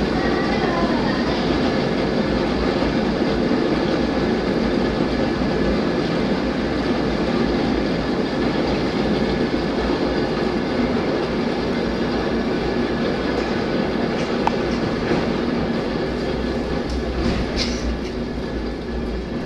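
Koyasan funicular cable car running on its rails as it is hauled up the steep grade by wire rope: a steady rolling rumble, with a couple of short high squeaks near the end.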